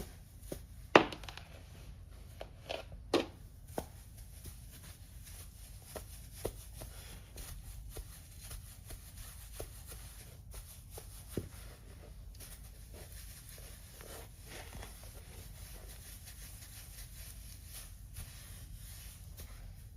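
Scattered light clicks and knocks of objects being handled over a low steady hum, with the sharpest knocks about a second in and near three seconds; the vacuum motor is not running.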